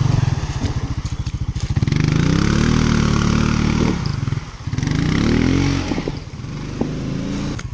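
Four-wheeler (ATV) engine running, chugging at low revs, then revved up twice in the middle, the pitch climbing and falling each time, before settling back to a lower steady run.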